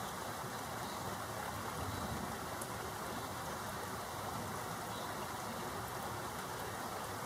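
Rain falling steadily during a thunderstorm, an even hiss.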